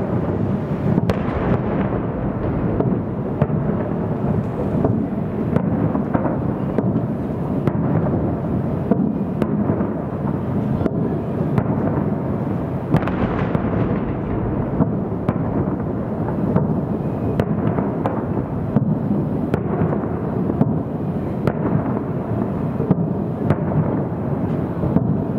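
Aerial firework shells bursting in quick succession, heard from a distance: a continuous rolling rumble of booms broken by many sharp reports at irregular intervals.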